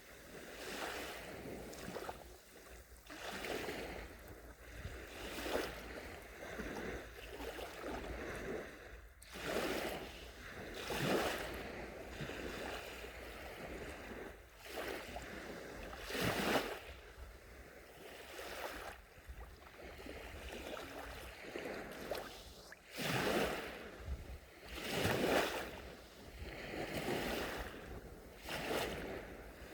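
Small sea waves breaking and washing up the shore in irregular surges every second or two, the biggest ones about a third of the way in, just past halfway and again near three-quarters through.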